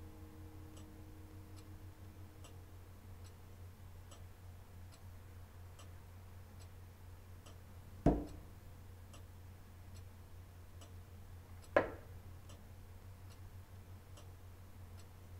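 Clock ticking faintly and steadily, a little more than one tick a second, with two sharp knocks about eight and twelve seconds in. The last piano notes die away at the start, under a low steady hum.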